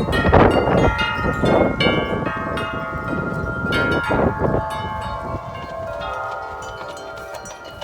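A set of large tuned wind chimes struck again and again by a strong gust, many overlapping ringing tones over a rushing wind. About halfway through the gust eases, and the chimes go on ringing more softly as they fade.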